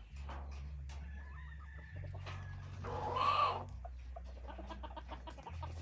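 Hybrid jungle fowl clucking and calling, with one louder call about three seconds in. A low steady hum runs underneath.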